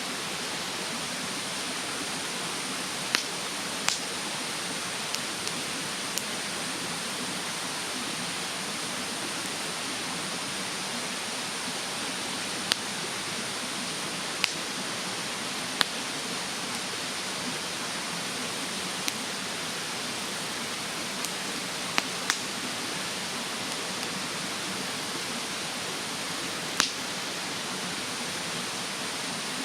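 Wood fire in a bonfire stand crackling, with about a dozen sharp, irregular pops over a steady rushing of stream water.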